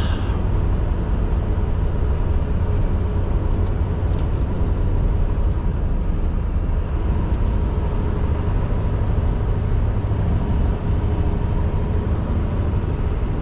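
Scania R620 V8 truck engine running steadily under way, heard from inside the cab with road noise. A thin high whine dips in pitch and climbs back about halfway through.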